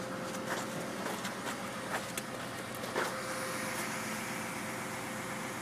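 A vehicle engine runs with a steady hum and a faint steady whine, over which come several light clicks and knocks of objects being handled, the sharpest about three seconds in.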